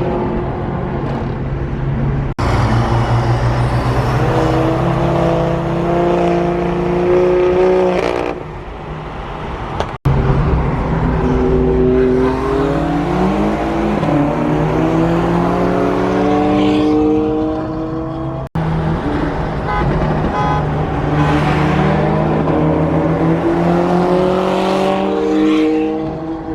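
Sports car engines and exhausts accelerating and revving in several cut-together segments, the pitch climbing through the gears and dropping back at shifts, with abrupt jumps between segments.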